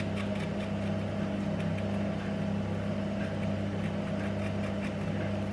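A steady low electrical hum with a buzz on it, holding one level, with a few faint ticks over it.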